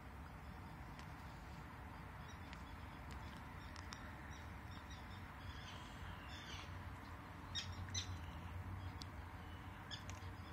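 Birds chirping in short high calls, scattered at first and clustering about three-quarters of the way through, over a faint steady low rumble of background noise.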